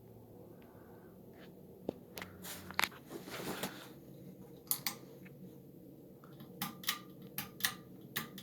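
Hunter low-profile ceiling fan running with a faint steady hum, with a scattering of sharp clicks and short knocks through the middle and latter part.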